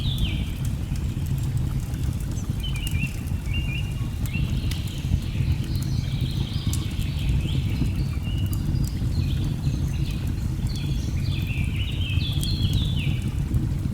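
Layered nature ambience: a steady low rush of falling water, with birds calling in quick runs of short falling notes several times, and faint sharp crackles of a wood fire.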